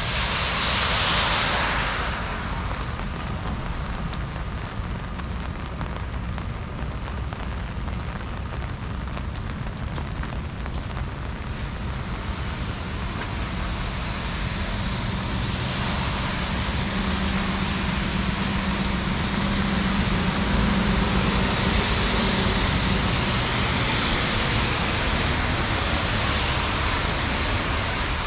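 Heavy rain falling on a city street with traffic passing on the wet road, tyres hissing. One vehicle swells past about a second in; the traffic grows louder in the second half, with a low engine hum in the middle.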